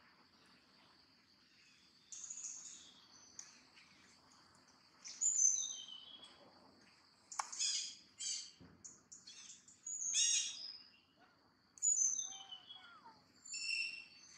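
Wild birds chirping: short, high calls every second or two, the loudest about five seconds in, over a steady high-pitched whine.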